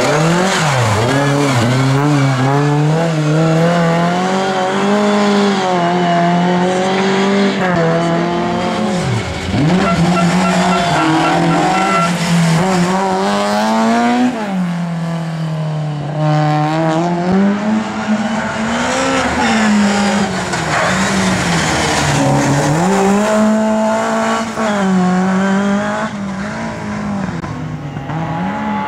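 Rally car engines revving hard, the pitch climbing through each gear and dropping again and again as the cars accelerate, brake and shift.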